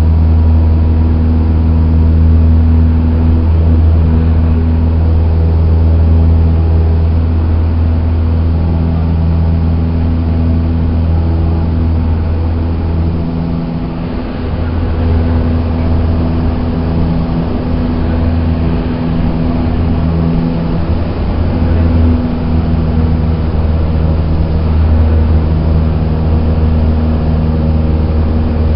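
Cessna 172's four-cylinder piston engine and propeller droning steadily as heard inside the cockpit, with a brief dip in level about halfway through.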